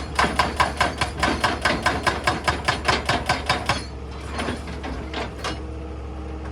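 Excavator-mounted hydraulic rock breaker hammering stone in rapid, even blows, about seven a second, which stop about four seconds in. The excavator's engine runs steadily underneath.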